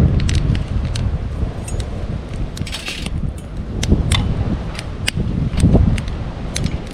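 Wood campfire crackling, with sharp irregular pops, over a low rumble of wind on the microphone.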